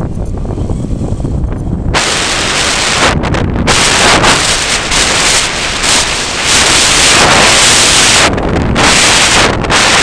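Strong gusty wind buffeting the microphone: a constant low rumble, joined about two seconds in by a loud rushing hiss that swells and drops in gusts, easing briefly twice.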